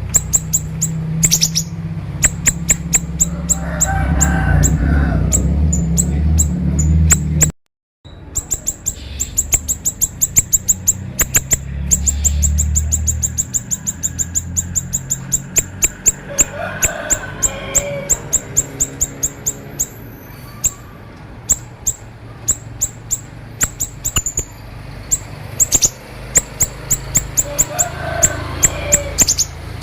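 A siri-siri songbird singing a rapid string of sharp, high ticking notes, many a second, in the fast 'konslet' style used in masteran tutor recordings. The song cuts out completely for about half a second around a quarter of the way in, then goes on.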